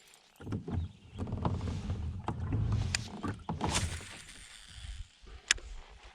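Knocks, bumps and a low rumble from movement in a kayak, with scattered sharp clicks; the sharpest click comes about five and a half seconds in.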